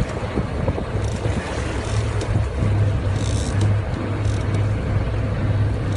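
Boat engine running steadily with a low drone, under a wash of wind and water noise.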